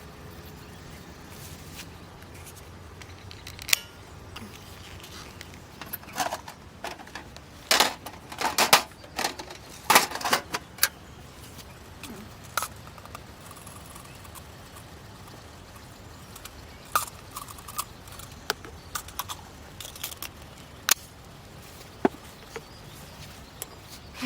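Irregular clinks and clatters of small hard objects being handled, thickest about a third of the way in, then single sparse clicks.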